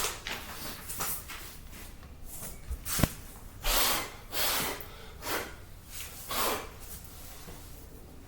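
A person breathing out hard through the nose in short puffs, with one sharp click about three seconds in.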